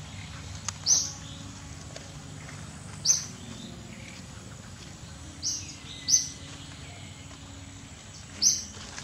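Short, high-pitched bird chirps, five in all, repeating about every two seconds over a steady low outdoor hum.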